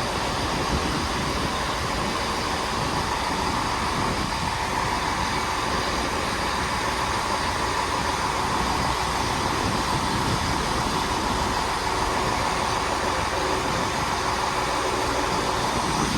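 A Class 166 Turbo diesel multiple unit running steadily as it stands at the platform.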